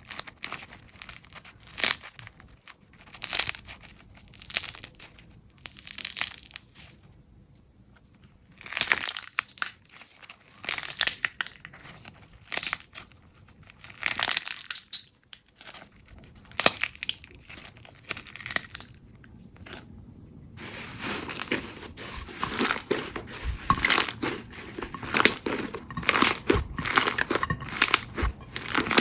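Jelly slime being squeezed and pressed by hand: bursts of crackling every second or two, which turn denser and almost continuous about two-thirds of the way through.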